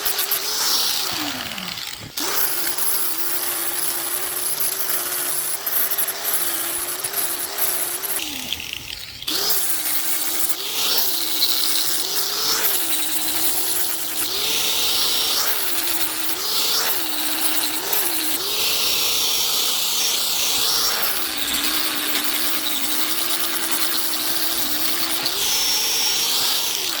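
Handheld electric power tool running as it trims and works the fibreglass-covered edges of a box. Its motor pitch sags and recovers again and again as it bites into the material. It spins down about two seconds in, again around eight seconds in, and at the very end.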